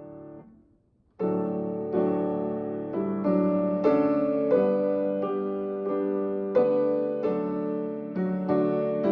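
Piano playing slow chords: a held chord dies away, and after a short pause about a second in the playing starts again, moving to a new chord every half second or so.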